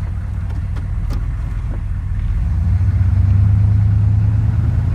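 Detroit 6.5 L turbo diesel V8 of a 1993 Chevy 1500 running as the truck drives, heard from inside the cab as a steady low drone that grows louder about halfway through.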